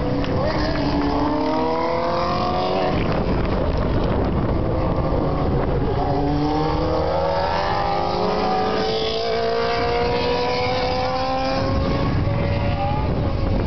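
Racing superbike engines at high revs, several at once, their pitch rising in long sweeps as they accelerate, over a steady wash of engine noise.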